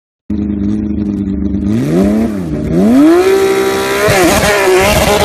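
Porsche 911 race car's engine running and being revved. It starts abruptly at a steady low pitch, rises and falls about two seconds in, then climbs again near three seconds and holds at a higher pitch, with a brief dip a second later.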